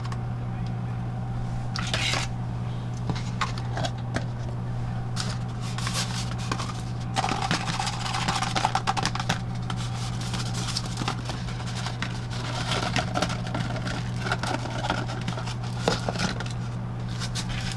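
Food being prepared by hand: packaging and containers rustling, scraping and clicking, busiest about seven to ten seconds in, over a steady low hum.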